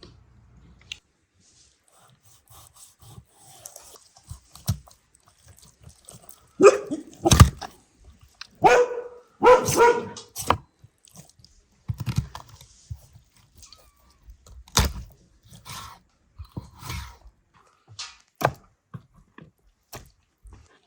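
A dog barking, a few calls bunched in the middle, among scattered knocks and clicks.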